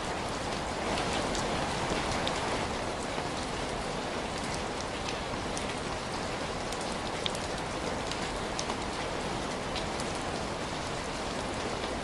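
Steady rain falling, with scattered short sharp ticks through it.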